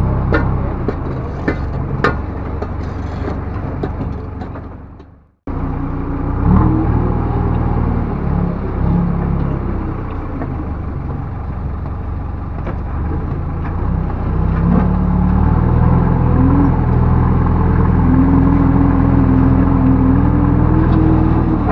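Backhoe loader's diesel engine running under working load, with a few sharp knocks and clatter in the first seconds. The sound cuts out for a moment about five seconds in, then the engine returns and works harder, louder and with a rising whine, in the second half.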